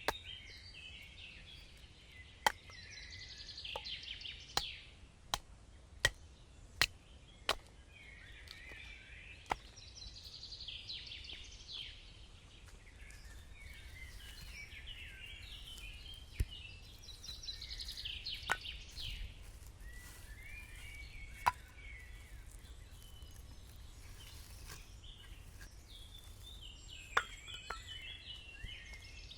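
A bird singing short warbled phrases, repeated every several seconds, with sharp knocks or cracks scattered over the first eight seconds and a few later.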